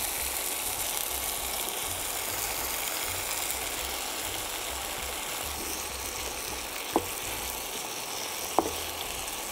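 Chicken breast, onions and marinade sizzling steadily in hot oil and butter in a frying pan. Two sharp knocks near the end, from a wooden spoon against the pan while stirring in broccoli.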